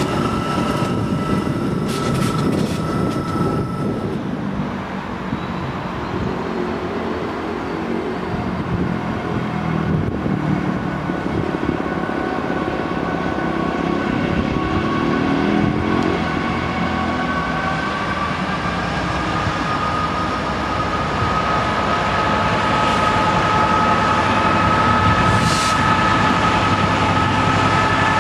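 South Western Railway Class 701 electric train moving off, with a few clicks from its wheels over rail joints. About four seconds in this gives way to the two-stroke V12 diesel engine of DB Cargo Class 66 locomotive 66086 running as it approaches, growing louder towards the end with a steady whine over it.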